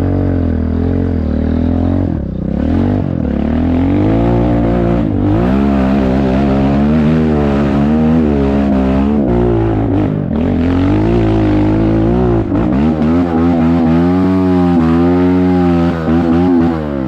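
Off-road enduro motorcycle engine revving up and down repeatedly as the throttle is worked, with the pitch rising and falling every second or so. It cuts off abruptly at the end.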